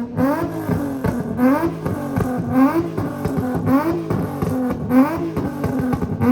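Car engine being revved over and over, about once a second, each blip rising in pitch and dropping back.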